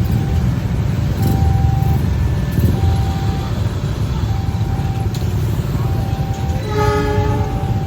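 Level-crossing warning alarm chiming in a repeating pattern of short tones over the steady low rumble of a passing train. About seven seconds in, a short horn blast sounds.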